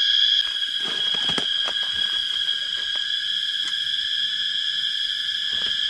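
Steady, high-pitched chorus of forest insects, several unbroken tones sounding together, with scattered light clicks and knocks through it.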